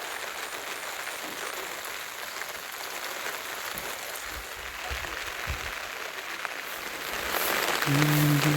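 Steady rain falling, an even hiss of drops. Near the end a low, steady pitched tone begins and holds.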